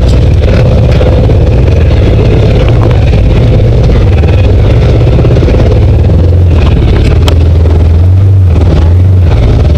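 Side-by-side UTV's engine running steadily under way on a trail, heard close up from the passenger seat, with a sharp click about seven seconds in.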